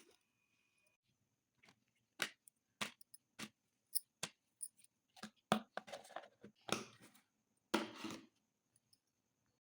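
Vegetables and plastic containers being handled and set down while a fridge is stocked: a series of short knocks and clicks with brief rustling, irregular and fairly quiet.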